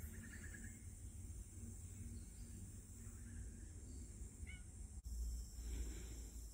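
Faint outdoor ambience with a steady low rumble, and a few distant bird chirps: a short quick run of notes near the start and a single brief chirp about four and a half seconds in.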